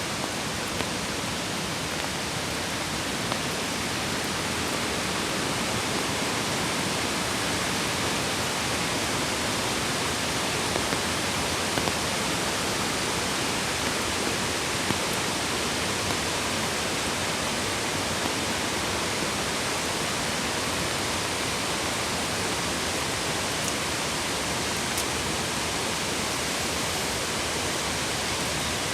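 Steady, even rush of a mountain creek flowing over stones, with a few faint ticks.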